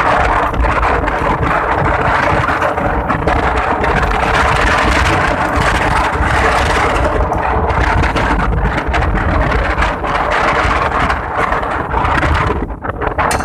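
Strong wind buffeting the microphone in gusts, over a faint steady mechanical hum.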